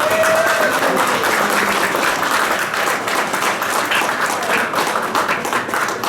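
A crowd applauding, with a voice cheering briefly near the start.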